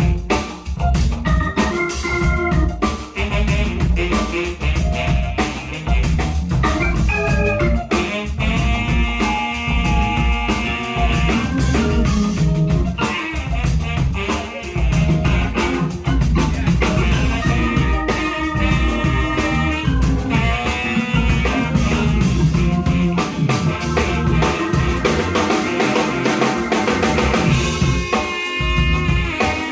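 Live band playing a soul-jazz instrumental: drum kit and bass keeping a steady groove under keys, with trumpet, saxophone and guitar on the melody lines.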